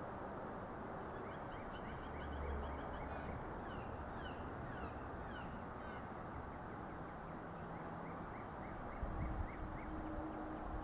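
Wild birds calling in the background: a quick series of short repeated chirps, a few downward-slurred whistles, then another series of chirps near the end, over a steady outdoor hiss.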